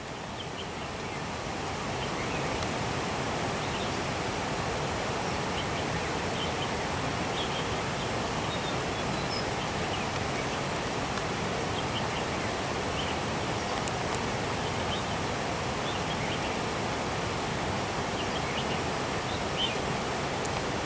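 Steady outdoor rushing noise, with faint short chirps scattered through it.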